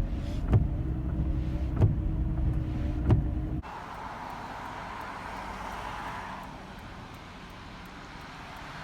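Road and engine hum inside a moving car, with a sharp tick about every second and a quarter. About three and a half seconds in, it cuts suddenly to a quieter, steady rushing noise.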